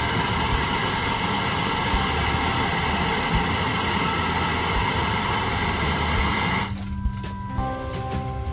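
A power tool's electric motor running steadily with a dense, even whine, stopping abruptly about seven seconds in. Background music continues underneath.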